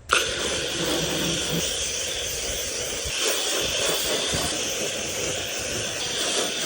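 Garden-hose spray nozzle switched on abruptly, giving a steady hissing spray of water onto the car.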